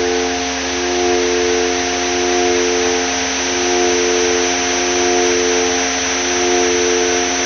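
Synthesizer drone from a Korg Volca Modular using FM: several steady low-middle tones held over a bed of hiss, with a thin high tone above. Some of the middle tones change about every two and a half seconds, and the loudness swells and ebbs gently.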